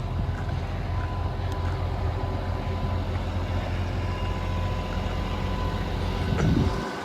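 Hitachi Zaxis 200 LC excavator's diesel engine idling steadily, running well. Its low rumble drops away sharply near the end.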